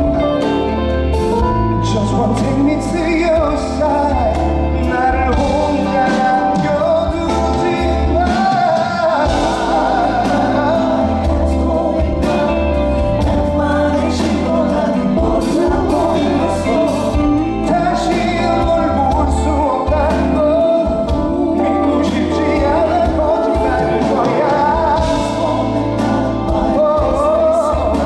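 Live pop ballad performance: a male voice singing over a band, with sustained bass notes and keyboard chords, at a steady level throughout.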